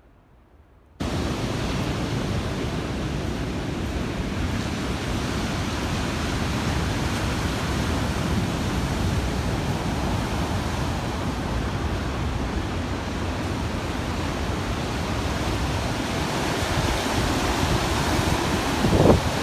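A steady rushing noise that starts abruptly about a second in and holds level, with a brief louder sound just before the end.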